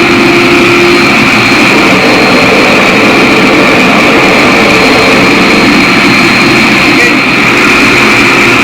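Forge running: a loud, steady rushing noise from the lit fire with no breaks.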